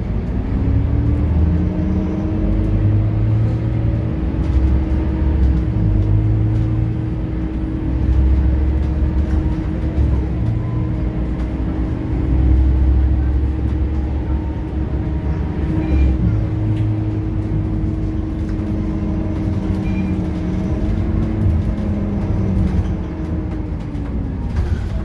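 Scania K230UB bus's engine and ZF automatic gearbox running under way: a heavy low rumble with a steady whine that rises as the bus picks up speed in the first second, holds level while cruising, then drops away near the end as it eases off.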